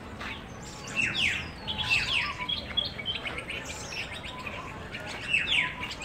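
Small birds chirping: a busy run of short chips and quick downward-slurred whistles, thickest from about a second in and again near the end.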